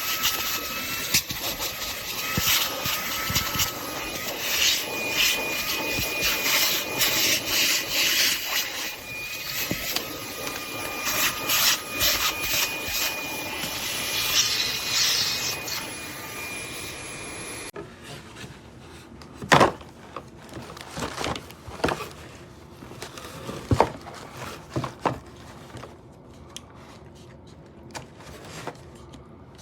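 Handheld cordless car vacuum running with a steady whine and hiss, its nozzle rubbing and scraping over surfaces in repeated strokes. About two-thirds of the way through the sound cuts off abruptly to a quieter stretch of a few scattered knocks and clicks.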